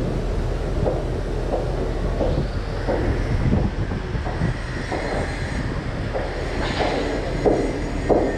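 Heavy machinery running with a steady low rumble and irregular rattling, joined about three seconds in by a thin, high whine.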